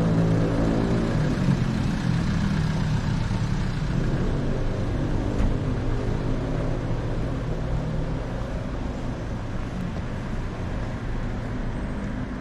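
A motor vehicle's engine running close by, a steady low hum that fades slowly as it moves off, over general street traffic noise.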